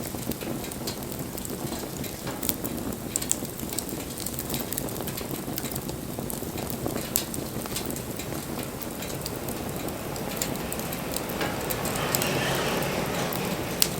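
Wood campfire burning, a steady rustling hiss broken by scattered sharp crackles and pops. About eleven seconds in, a louder hissing rush swells up and then eases off near the end.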